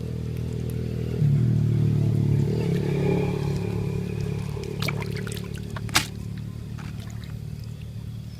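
A small engine running steadily, louder for a moment about a second in and then slowly fading, with water trickling and a couple of sharp clicks.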